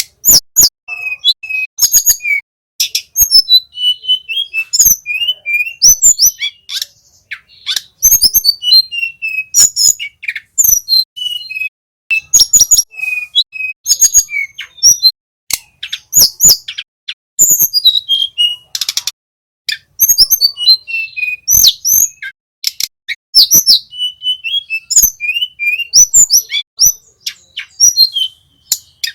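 Tledekan gunung flycatcher singing: a loud, rapid, varied run of high chirps, whistled notes and short trills, in phrases with brief breaks between them.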